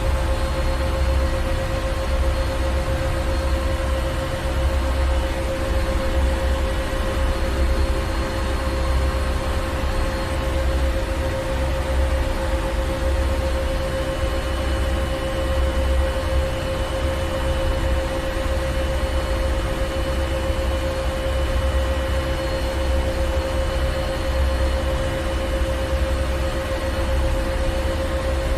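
Ship's engine room machinery running steadily: a constant hum at one pitch over a deep rumble that pulses unevenly, with an even mechanical hiss.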